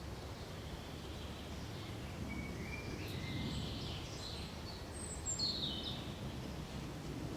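Birds chirping over a steady low background rumble of outdoor noise: a few short chirps about two to three seconds in, then a louder chirp that falls in pitch around five to six seconds in.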